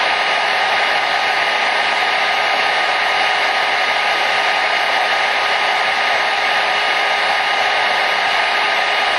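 Hair dryer running steadily: an even, unbroken rush of air with a faint motor hum.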